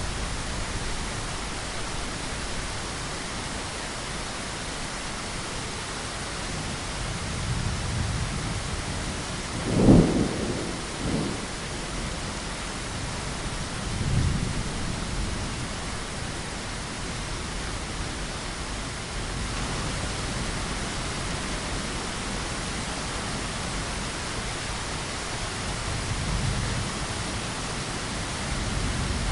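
Steady rain with low rolls of thunder. About a third of the way in comes a sharper, louder thunderclap, followed by a smaller crack and further low rumbles.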